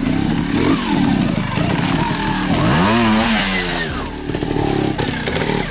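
Trials motorcycle engine blipped and revved in short bursts, its pitch rising and falling over and over, with one long rev up and back down about three seconds in.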